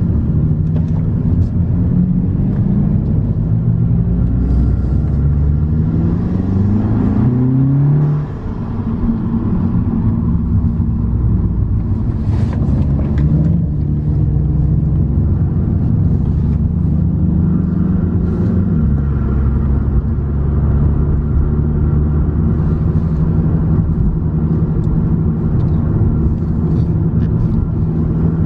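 Car engine and road noise heard from inside a moving car: the engine revs rise in pitch a couple of times, with a brief dip near eight seconds like a gear change, then it holds a steadier pull over the road rumble.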